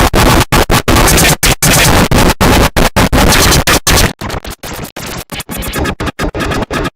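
Loud, heavily distorted, effects-processed electronic audio that keeps cutting out in rapid stutters, with scratch-like noises. About four seconds in it drops to a quieter, choppier texture.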